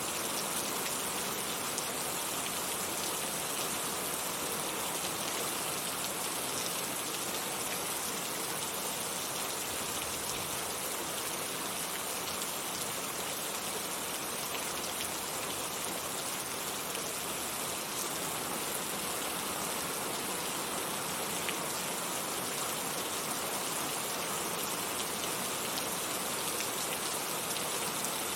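Heavy rain falling steadily, an even hiss of rain with the patter of individual drops hitting a surface.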